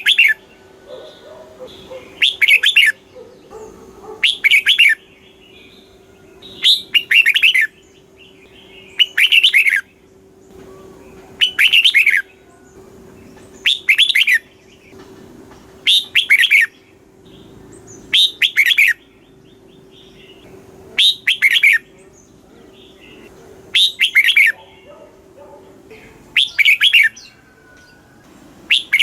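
Red-whiskered bulbul singing: short, loud, chirpy song phrases of a few quick notes, repeated about every two seconds. A faint steady hum runs underneath and stops near the end.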